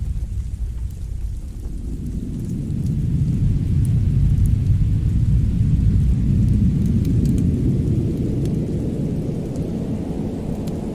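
Fireplace ambience: sparse faint crackles over a deep, steady rumble that swells in the middle and then eases off.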